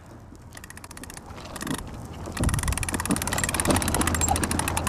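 A toddler's bike rolling along pavement: rapid, even clicking over a low rolling rumble, growing louder about halfway through.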